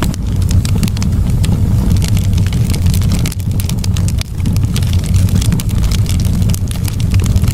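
Campfire burning, with frequent sharp crackles and pops over a steady low rumble.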